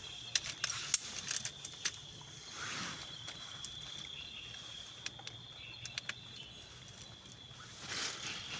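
Outdoor ambience with a steady high-pitched drone and scattered sharp clicks and taps, the loudest about a second in.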